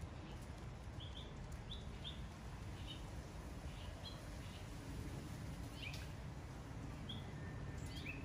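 A small bird chirping: short, high notes, several sliding downward, repeated roughly once a second over a steady low background rumble.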